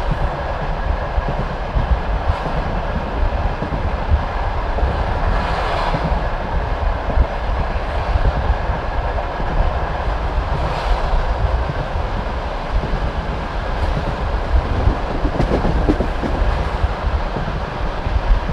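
Passenger train carriage rolling along the track: a steady low rumble and rail noise, with occasional knocks of the wheels over rail joints.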